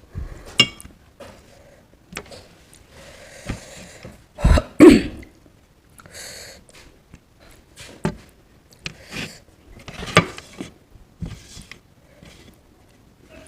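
Close-miked eating sounds: chewing and mouth noises with scattered sharp clicks, and a loud double burst about four and a half seconds in.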